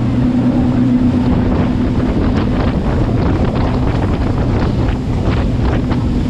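Jet boat's twin Chevy big-block V8 engines running at speed with a steady drone, under heavy wind buffeting on the microphone that grows gustier after the first second or so.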